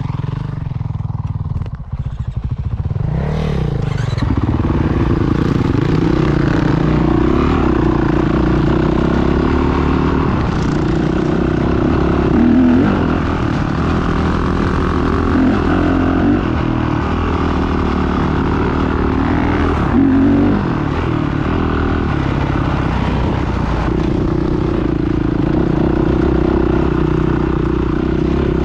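Motocross bike engine running steadily, its pitch climbing as it revs up about three seconds in, then wavering with the throttle.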